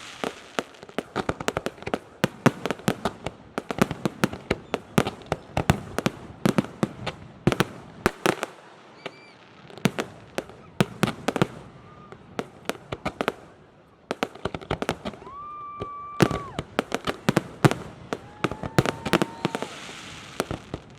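Fireworks display: a rapid, continuous string of bangs and crackles from shells bursting. Two held whistles sound in the second half.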